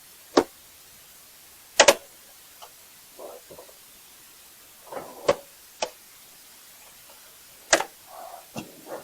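Gear being handled and set down: a handful of sharp separate knocks and clunks, with soft scuffing and rustling between them.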